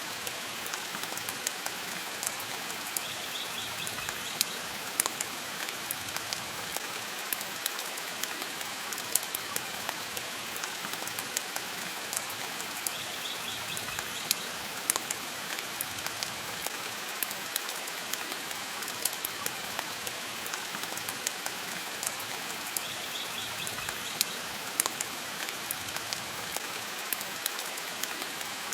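Steady rain falling, mixed with a wood fire in a stone fireplace crackling, its sharp pops scattered irregularly throughout.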